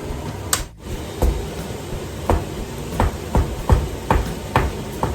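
Kitchen food preparation: a run of about eight heavy knocks on a hard surface, irregularly spaced, starting about a second in.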